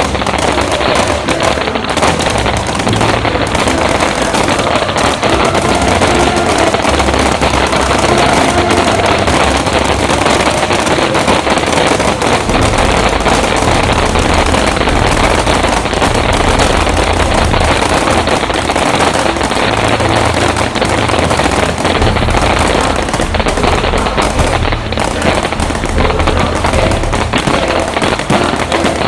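Consumer fireworks finale barrage: cakes and artillery shells firing in a rapid, continuous run of overlapping bangs, with music playing alongside.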